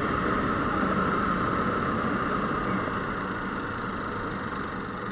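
Motorcycle engine running, with wind and road noise, gradually getting quieter.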